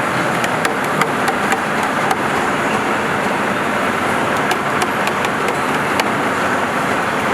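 Heavy-duty lathe turning a long steel shaft: a steady machining noise with scattered sharp ticks at irregular intervals.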